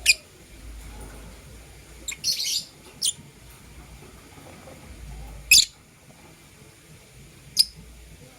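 Lovebirds giving short, sharp, high-pitched chirps, about five spaced a second or two apart, with a brief scratchy burst about two seconds in.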